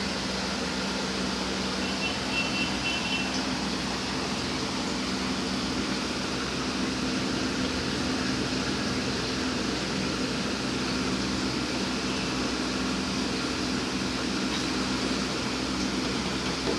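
Steady mechanical hum with an even hiss, unchanging throughout, and a brief high-pitched tone about two seconds in.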